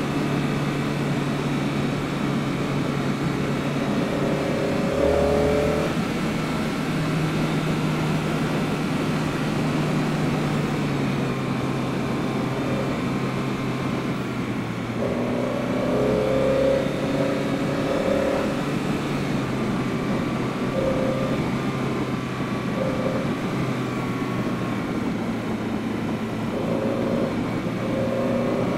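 BMW E30 320is's S14 four-cylinder engine, fitted with Schrick cams, a carbon airbox and an Evo2 muffler, running steadily on the road, with tyre and road noise underneath. The engine note drops a step about ten seconds in, and a higher note comes and goes several times after that.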